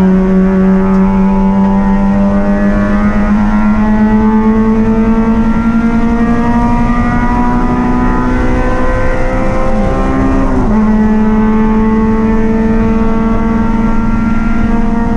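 Race car engine running hard at high revs. Its pitch creeps slowly upward for about ten seconds, dips briefly, then holds steady slightly higher.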